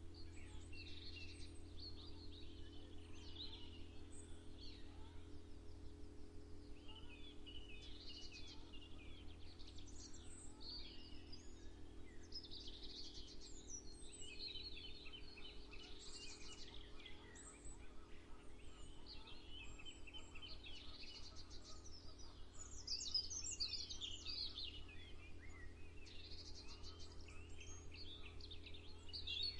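Several songbirds singing and chirping at once in a dawn chorus, with overlapping calls and trills that are loudest about two-thirds of the way through. A steady low hum runs underneath.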